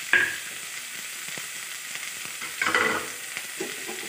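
Chopped onion sizzling in hot cooking oil in a kadai, with a spoon stirring it: a sharp knock against the pan just after the start and a short burst of scraping and clatter near three seconds in.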